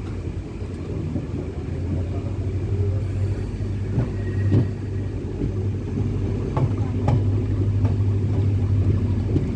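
Train running with a steady low rumble and drone, with a few sharp clicks or knocks over the middle of the stretch.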